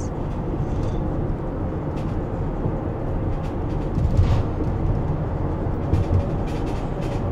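Steady engine and road rumble inside a moving van's cabin, with a few faint knocks about two and four seconds in, from something the driver says has come loose in the back.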